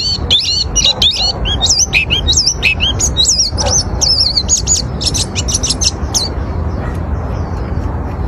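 White-eye (pleci) singing a fast twittering song of high, slurred chirps and whistled notes. The song stops about six seconds in, leaving only faint chirps over a steady low background rumble.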